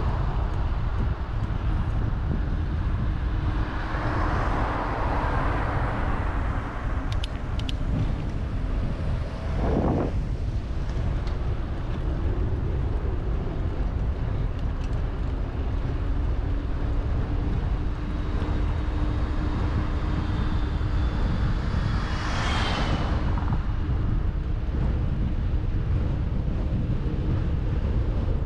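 Wind buffeting the microphone of a camera on a moving bicycle, a steady low rumble, with a vehicle passing about 22 seconds in.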